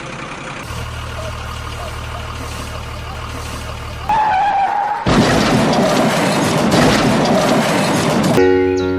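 Heavy diesel machinery running steadily with a low hum. A brief wavering tone comes about four seconds in, then a much louder, noisy stretch of running from about five seconds. Piano music starts near the end.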